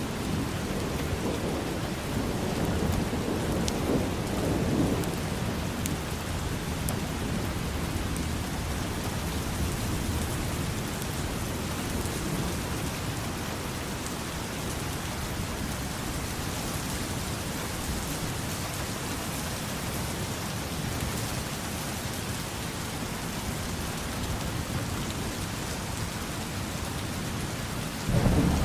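Steady rain falling, with a low rumbling that swells about three to five seconds in and comes back louder right at the end.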